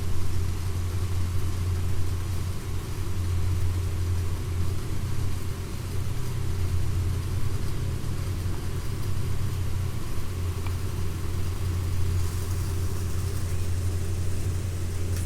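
A steady low mechanical hum, like a motor running continuously.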